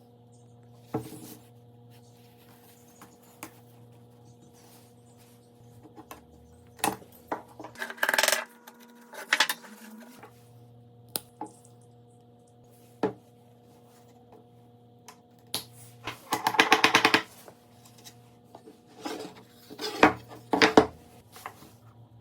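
Tools and wooden parts being handled on a workbench: scattered knocks and clicks, a short scraping burst, and a quick run of rapid even clicks about two-thirds of the way through, over a steady low hum.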